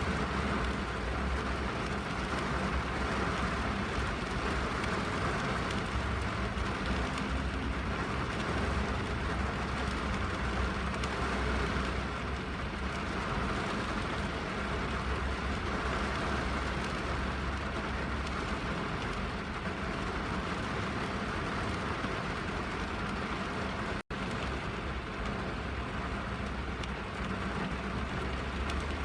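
Steady rain drumming on a car's roof and windows, heard from inside the cabin, with a deep, even rumble underneath. The sound cuts out for an instant about 24 seconds in.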